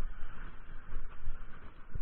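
Riding noise from a mountain bike climbing a steep trail: an uneven rumble of tyres on the ground and wind buffeting the microphone, with a few small knocks.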